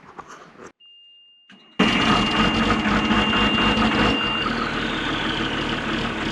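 A warning buzzer sounds one steady high tone about a second in. Just under two seconds in, the mechanical Cummins 8.3 diesel of a Kenworth W900A dump truck starts abruptly and settles into a steady run. The buzzer cuts off a few seconds after the engine catches.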